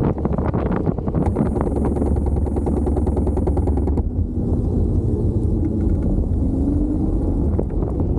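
Kaabo Wolf King GT Pro electric scooter on the move: steady road and wind noise with frequent small knocks and rattles. A high hiss joins for about three seconds, and a faint rising tone comes in near the end.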